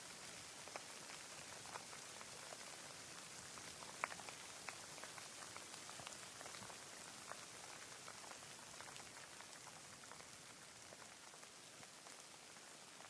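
Rain falling in the open: a quiet, even hiss with scattered individual drops ticking, one louder drop about four seconds in.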